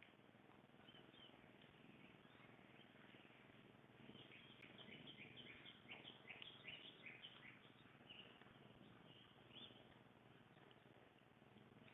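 Faint birds chirping, with a quick run of short high chirps about a third of the way in, over steady low background noise.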